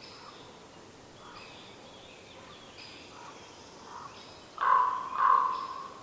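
A bird gives two loud calls in quick succession near the end, over faint high chirping of songbirds in the forest.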